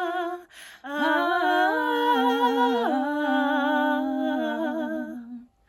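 Voices singing long held notes in harmony with vibrato, with a short break about half a second in and a step in the chord about three seconds in, then fading out.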